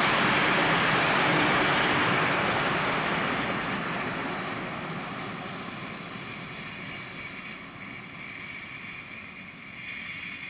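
Freight train of open-top wagons rolling past, wheels rumbling on the rails. The noise fades steadily once the last wagons go by, about halfway through, leaving a faint, steady, high-pitched whine.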